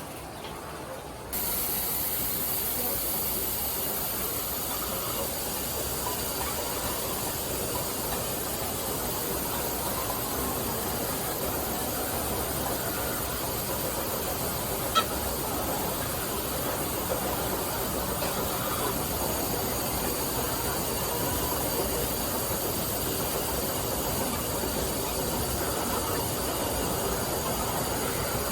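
Steady hissing din inside a caged layer-hen house: many hens calling under a constant machinery noise. It steps up about a second in, and there is a single sharp click near the middle.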